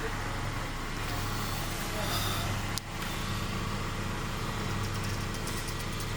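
Mercedes-Benz A-Class engine idling steadily, with one short click a little before the halfway point.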